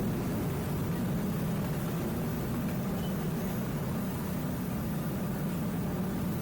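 Steady low rumble, even throughout, with a faint hum above it.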